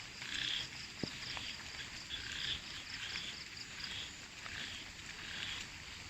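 Frogs calling from the flooded pond, a chorus of repeated croaks spaced roughly a second or less apart.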